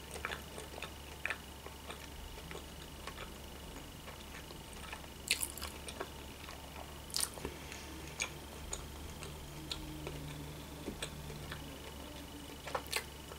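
Quiet chewing of a sushi roll with the mouth closed: soft wet smacks and a few sharp clicks scattered through it.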